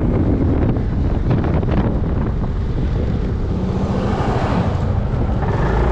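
Heavy wind buffeting the microphone of a rider on a moving Yamaha Majesty 400 scooter, with the engine running underneath. Near the end the wind eases and a steady engine note comes through.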